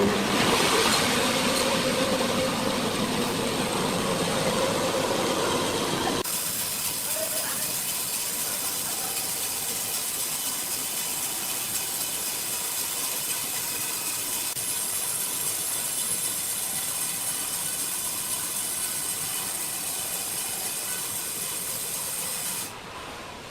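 Steady hissing machinery noise with several steady high whines in it. About six seconds in it changes abruptly to a thinner, brighter hiss. It drops off near the end.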